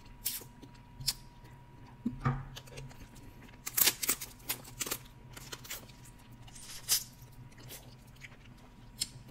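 Close-miked eating sounds: scattered wet clicks and smacks of chewing Dungeness crab meat dipped in butter sauce, with a quick run of them about four seconds in.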